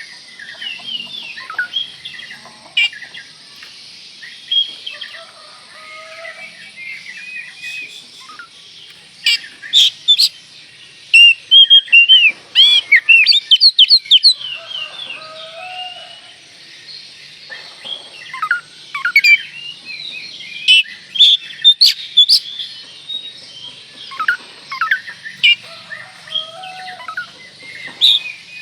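Oriental magpie-robin (kacer) singing a fast, varied song of whistles and chirps, with louder runs of notes about a third of the way in and again about two thirds in.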